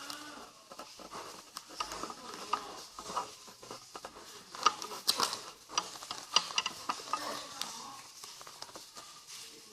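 A sheet of paper being folded and creased by hand, rustling and crinkling, with a run of sharp crackles about halfway through.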